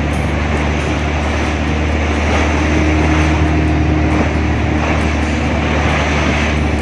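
Boat engine running steadily at speed, a constant low hum under a wash of wind and water noise.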